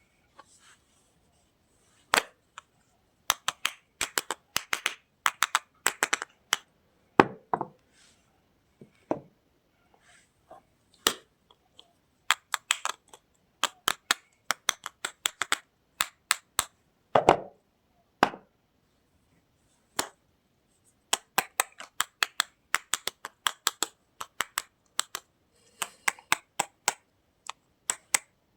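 Sharp, irregular cracks and snaps in quick clusters from soap and its packaging being unboxed and handled, with a few heavier knocks among them.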